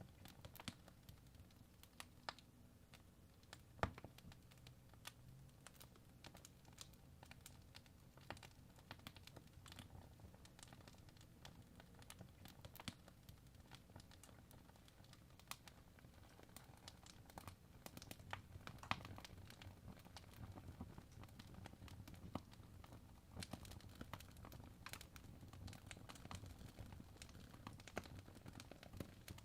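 Faint crackling of a wood fire: irregular pops and snaps over a low steady rumble.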